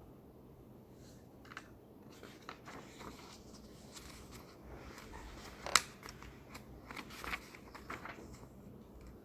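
Library reading-room ambience: a low steady room hum with scattered small clicks and rustles of people handling things at the desks, and one sharper click a little past halfway.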